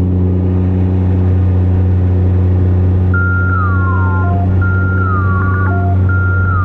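Can-Am Ryker three-wheeler's engine running at a steady cruising speed, a constant low drone. From about three seconds in, a high electronic tone repeats about every second and a half, each time dropping in pitch.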